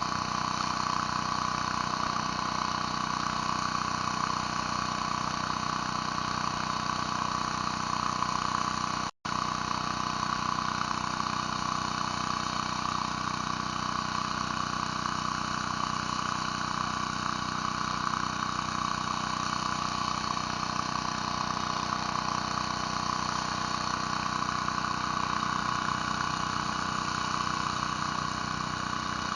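Gas-engine pressure washer running steadily while a surface cleaner cleans concrete. The sound cuts out for a split second about nine seconds in.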